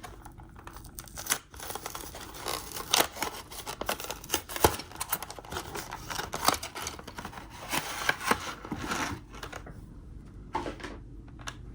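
A plastic-and-cardboard blister pack holding two die-cast toy cars being opened by hand: crackling plastic and rustling, broken by many sharp clicks, easing off briefly near the end.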